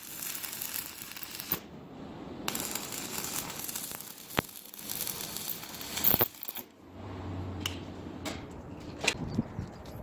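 Strips of bandsaw blade and wrought iron clinking and scraping against each other as they are handled and stacked for a damascus billet, with scattered sharp metallic clicks, one sharp click about four and a half seconds in.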